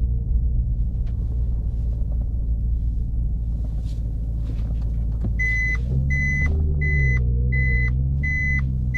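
Maserati GranTurismo S's 4.7-litre V8 running at low revs with a deep, steady rumble. From about halfway in, a high electronic beep repeats about every 0.7 seconds over the engine.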